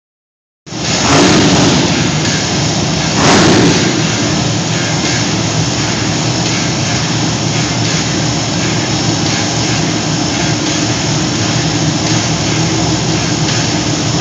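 Monster truck engine running loud and rough, revving up in two surges near the start, then holding a steady roar.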